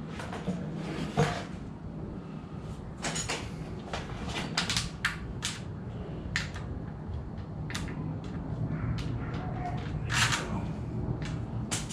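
Irregular metallic clicks and clanks of engine parts being handled as a slipped timing chain is put back on its sprockets, over a low steady hum.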